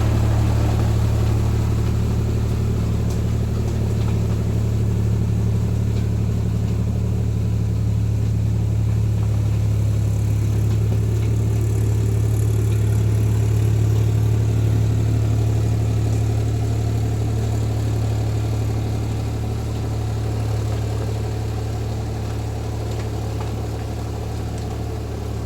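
Tractor engine running steadily with a deep, even hum, growing slightly quieter over the last few seconds.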